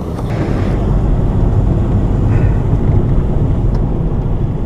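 Loud, steady low rumble of strong wind buffeting the microphone.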